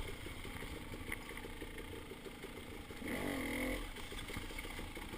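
Dirt bike engine idling low, a steady even putter.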